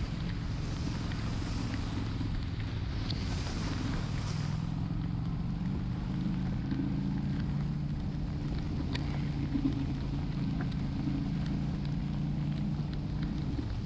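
Honda Shadow 750 V-twin engine running steadily while riding, under a hiss of wind and rain that is louder for the first few seconds.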